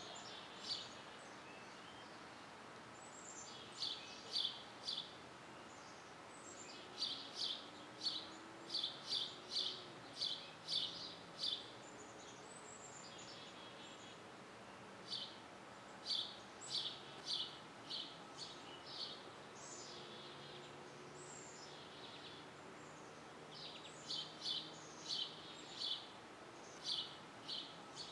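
Birds chirping: runs of short, high chirps with a few downward-sliding notes, coming in clusters separated by pauses of a few seconds, over a steady outdoor background hiss.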